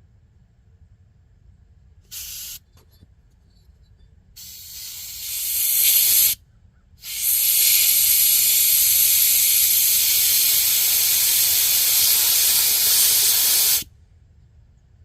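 Compressed air hissing from a blow gun as heater parts are blown clean, in three blasts: a brief one, a second that builds over about two seconds, and a long steady blast of about seven seconds that cuts off suddenly.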